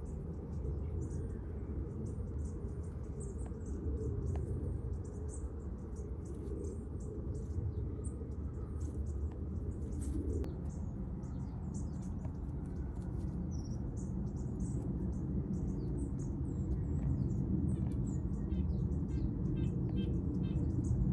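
Small birds chirping in short high notes over a steady low rumble, with a quick run of repeated chirps near the end.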